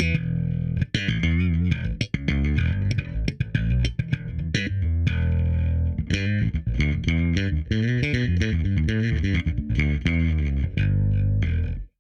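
Yamaha BB3000 electric bass played through a Darkglass Anagram on its second compression setting: a busy line of quickly plucked notes over strong low tones, which stops abruptly near the end.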